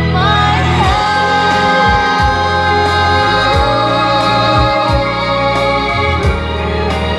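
Pop ballad played through a car audio system: Hertz component speakers and an MB Quart underseat subwoofer, tuned by a Sennuopu DSP, heard inside the car's cabin. A short sung line opens over sustained keyboard chords, with repeated deep bass notes underneath.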